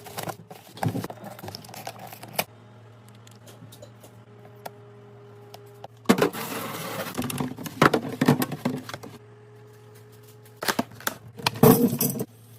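Groceries and their packaging being handled and set into a fridge: irregular clicks and clacks with bursts of rustling, loudest in two stretches in the second half, over a steady low hum.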